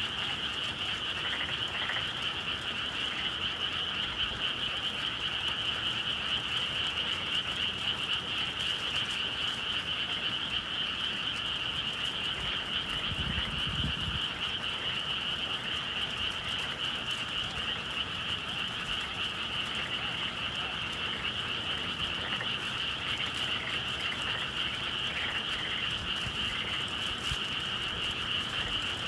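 Dense chorus of frogs calling steadily on a spring night in the countryside, with a brief low rumble about thirteen seconds in.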